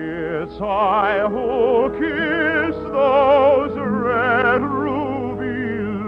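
A trained voice singing a slow song in operatic style with wide vibrato, held notes in short phrases, over a sustained orchestral accompaniment.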